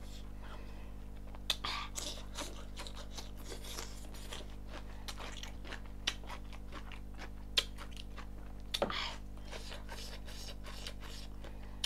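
Close-up, wet chewing and lip smacking of a person eating chicken curry and rice: a quick, irregular run of short mouth clicks and smacks, with a few louder smacks, over a steady low hum.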